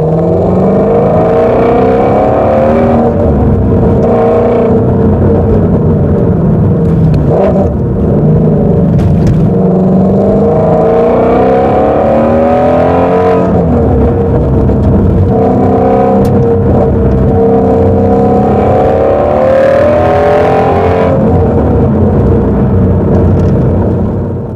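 Ford Mustang Shelby GT350's 5.2-litre Voodoo flat-plane-crank V8 under load, revving up through the gears. Its pitch rises and then drops back several times as it shifts.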